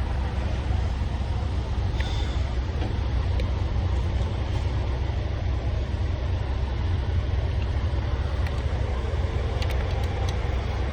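Heavy diesel truck engine idling: a steady low rumble, with a few faint clicks of parts being handled.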